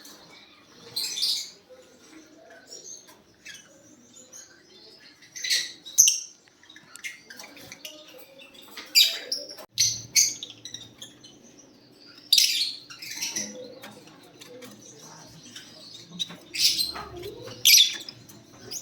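Lovebirds chirping: short, shrill calls coming at irregular intervals, a few seconds apart.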